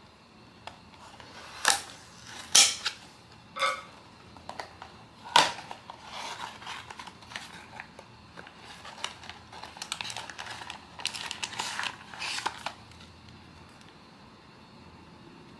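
Hands handling blind-box packaging: four sharp clicks and taps, then several seconds of rustling and crackling that stop about three-quarters of the way through.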